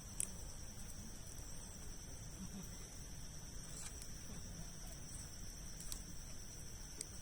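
Wood campfire of large logs burning with a low steady rush and a few sharp crackling pops, the loudest about a quarter-second in. A steady high-pitched insect chirring runs underneath.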